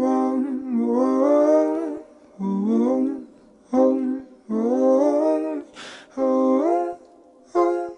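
Wordless singing in a song's vocal track: a voice hums or croons short phrases that slide between notes, separated by brief pauses, with a short hiss about six seconds in.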